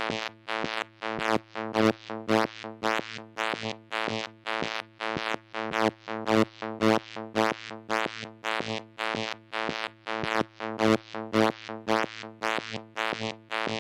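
Moog Mother-32 analog synthesizer playing an even stream of short plucked notes, between two and three a second, each opening bright and fading, on a fixed pitch, with some notes louder than others. Its voice is modulated by a Comdyna GP-6 analog computer solving the Lorenz chaos equations.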